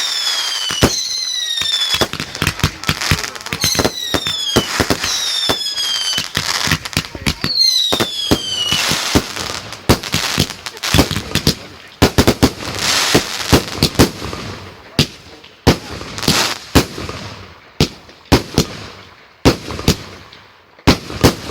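Firework display: rapid bangs and crackling, with several whistling fireworks whose whistles fall in pitch during the first nine seconds. After that, separate loud bangs come about once a second among lighter crackle.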